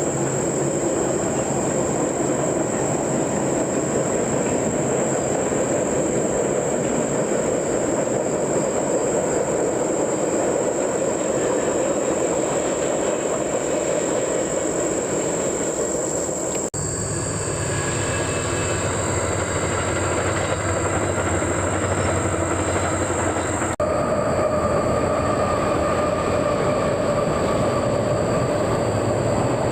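A train passing on the rails, a steady continuous noise of wheels and railcars. The sound breaks off abruptly twice, about 17 and 24 seconds in, and a steady whine joins after the second break.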